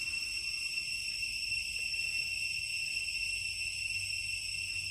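Cicadas calling in a continuous, steady high-pitched drone on a few fixed pitches.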